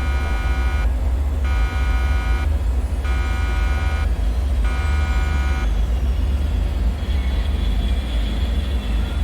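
A loud, deep, steady rumbling drone under a buzzing electronic alarm tone that sounds four times, each beep about a second long with short gaps. The alarm stops a little past halfway, leaving the drone and a faint high thin tone.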